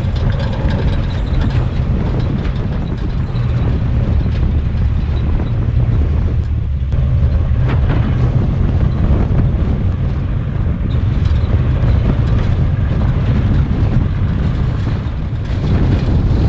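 An off-road vehicle's engine running steadily under way, a deep continuous rumble with wind buffeting the microphone.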